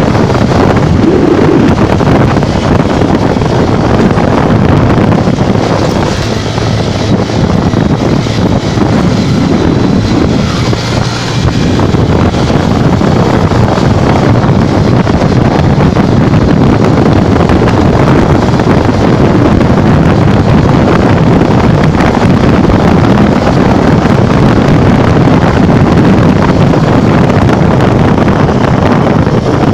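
Loud, steady wind rush buffeting the microphone over a Honda Bros 150 motorcycle running at speed on the road.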